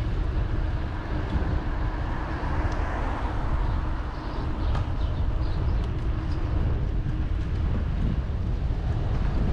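Steady low rumble of wind buffeting the microphone of a moving bicycle, with faint road noise and a few light clicks.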